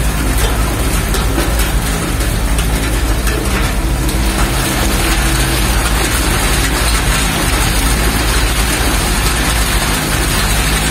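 Dark background music over the steady rush of a heavy downpour.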